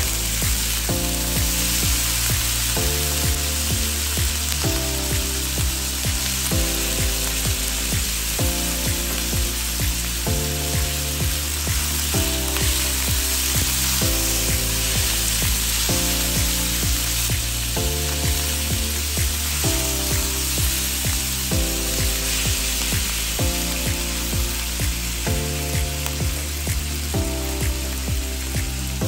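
Onions and tomatoes sizzling as they sauté in oil in an aluminium wok, a steady frying hiss, with background music playing over it.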